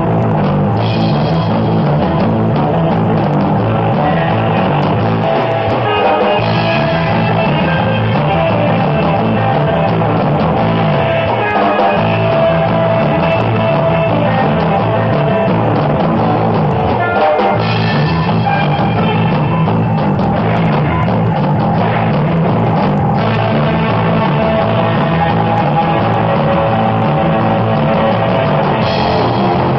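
A surf rock band playing an instrumental live: electric guitar over bass and a drum kit at a steady driving beat.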